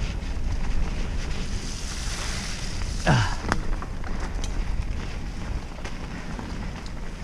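Wind rushing over the microphone and mountain bike tyres rolling over a wet dirt trail. About three seconds in there is a short sound that falls in pitch, followed by a sharp click.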